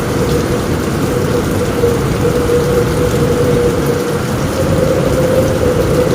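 Steady heavy rain on a roof, with a low rumble underneath and a steady tone held throughout.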